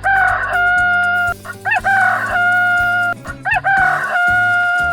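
Rooster crowing three times, each cock-a-doodle-doo ending in a long held note, over background music.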